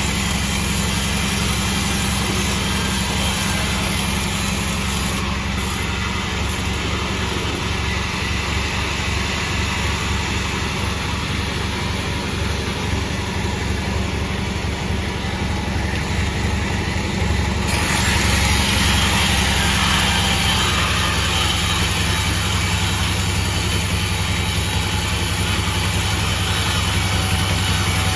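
Sawmill machine running with a steady engine-like hum. About two thirds of the way through, a sudden hiss sets in and the sound grows louder.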